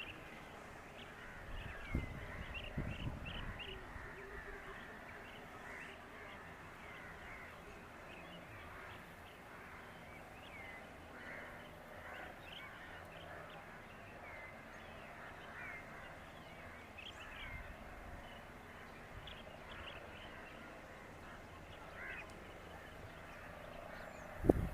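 Birds chirping and calling, many short overlapping calls, over a faint low steady hum; a sudden thump near the end.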